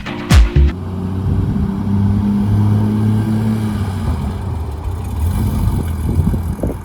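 Car engine running steadily at low revs, a low even rumble. A few beats of electronic music end it abruptly just under a second in.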